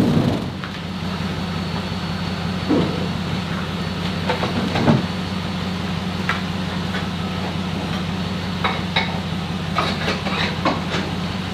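Vehicle engine running steadily with a low hum, with scattered short clicks and knocks over it, more frequent in the second half.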